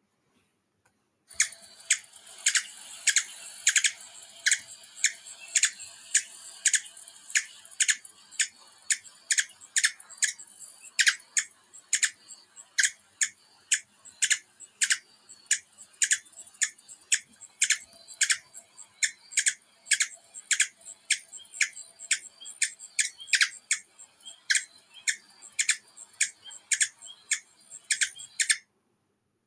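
A bird calling over and over, sharp short notes about twice a second over a steady recording hiss; it starts abruptly about a second in and cuts off suddenly near the end, like a played bird-call recording.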